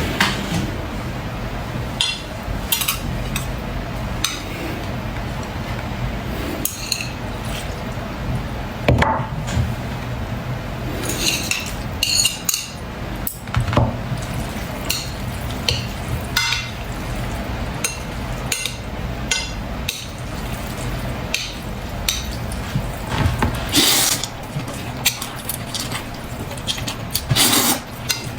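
Dishes and cutlery clinking and knocking at a meal, many short irregular clicks and taps over a steady low hum.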